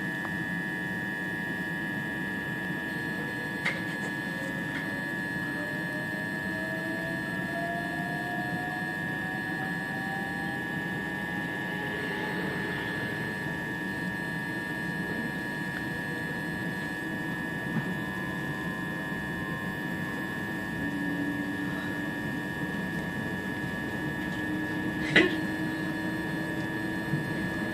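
Inside an electric train on the move: steady running noise and electrical hum, with a motor whine that rises in pitch as the train gathers speed. Two short sharp clicks stand out, one near the start and one near the end.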